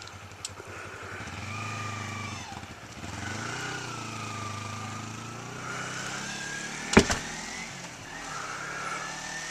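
Motorcycle engine running as it rides off, its pitch rising and falling with the throttle. A single sharp click about seven seconds in.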